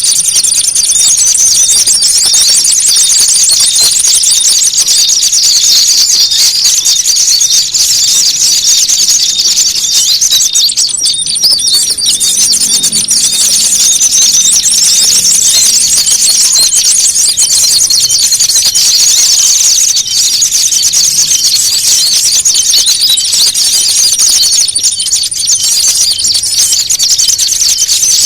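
Bird-lure recording of many small songbirds calling noisily and agitatedly at once, the fighting-type chatter used to draw in small birds: a dense, high, fast chattering and trilling that never lets up. A thin steady high note runs beneath it for long stretches.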